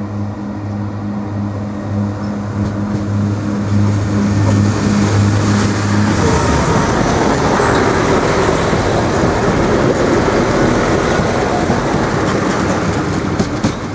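Irish Rail 22000 class diesel multiple unit passing close by: a steady low engine drone with a faint high whine for the first half, both cutting off about six seconds in, followed by the loud, steady rush of the carriages' wheels rolling on the rails.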